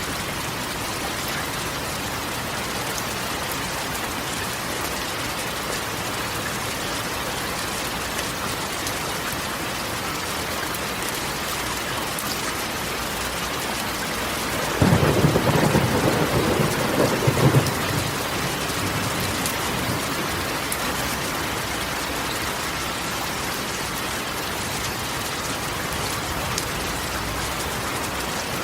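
Steady rain drumming on a corrugated metal roof. About halfway through, a rumble of thunder rises over it for about three seconds.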